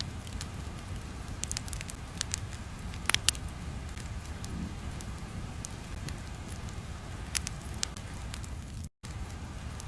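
Crackling ambience like a fire: scattered sharp pops and crackles over a low, steady rumble, with a brief cut to silence near the end.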